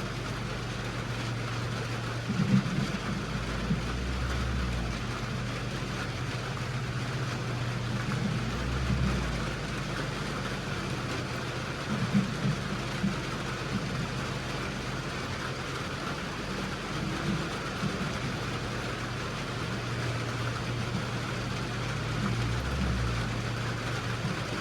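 A vehicle engine running steadily, with a continuous hiss of rain and a few short knocks and rattles.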